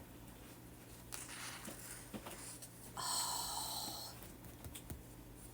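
A person's breathy exhale lasting about a second, about three seconds in, with a few faint ticks before and after it.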